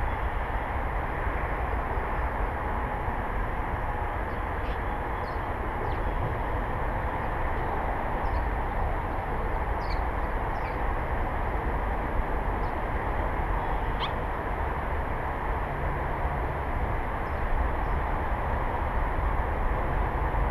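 Steady outdoor rumble, with faint, short bird chirps scattered through it, most of them in the middle stretch.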